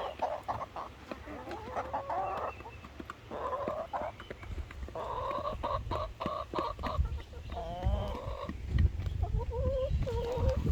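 Domestic chickens clucking with short, repeated calls, some gliding in pitch. Low thuds and rumbling run underneath, heavier near the end.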